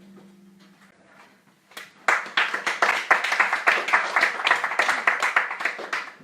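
The last note of the song dies away, then a small audience claps, starting about two seconds in and keeping up dense, quick applause.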